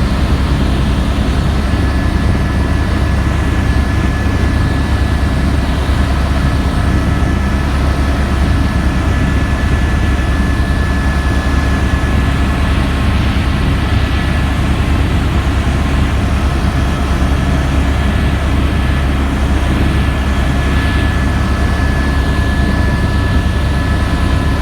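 Helicopter in steady flight, heard from inside the cabin: a loud, even low drone from the rotor and engine, with a thin high whine from the turbine above it.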